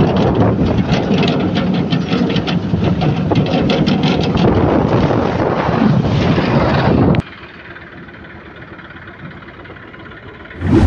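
Heavy diesel machinery, a backhoe loader or tractor working soil, running loud with a rattling clatter. It cuts off abruptly about seven seconds in, leaving a quieter low hum, with a short swell of noise near the end.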